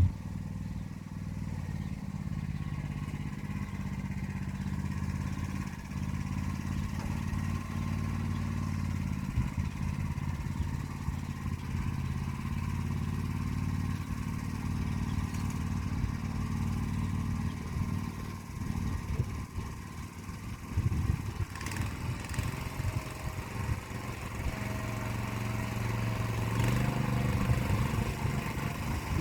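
Motor Sich walk-behind tractor's engine running steadily under load, pulling an arrow-type hiller through the soil. The engine note wavers for a few seconds past the middle, then runs steady and a little louder near the end.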